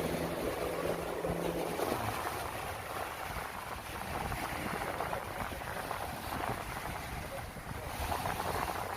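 Wind buffeting the microphone over the wash of sea surf, in a steady gusty rush. A faint low hum sounds through the first two seconds.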